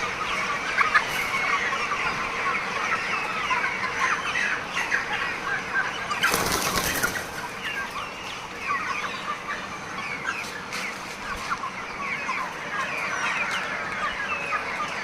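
A large flock of broiler chickens chirping and clucking continuously, many short calls overlapping. About six seconds in there is a second-long rustling burst.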